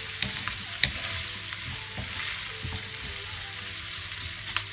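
Diced pancetta, garlic and onion sizzling in a metal frying pan as a wooden spatula stirs and scrapes through it, with small clicks throughout and a sharp knock near the end.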